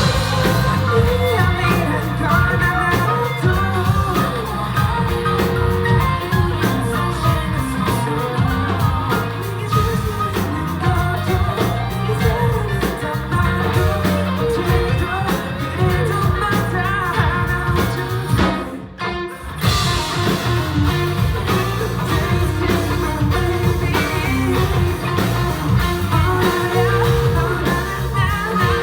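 Live band playing a pop-rock song, with a lead vocal over electric guitar, bass and drums; the music breaks off for a moment a little past the middle, then comes back in.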